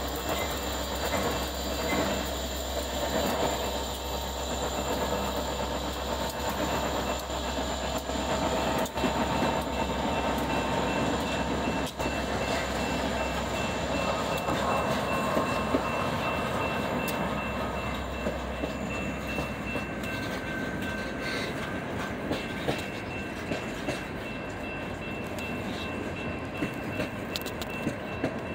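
EMD SD60-series diesel freight locomotives passing at close range with a deep engine drone, then a long string of freight cars rolling by, wheels clacking over the rail joints. The engine drone fades away after about twenty seconds, leaving the rumble and clatter of the cars.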